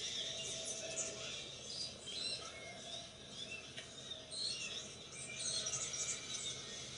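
Small birds chirping outdoors: many short, high chirps scattered throughout over a steady background hiss.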